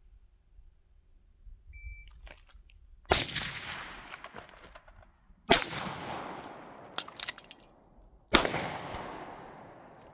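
Three suppressed rifle shots about two and a half seconds apart, each followed by a long echo that fades away. A couple of short, sharp metallic clicks come between the second and third shots.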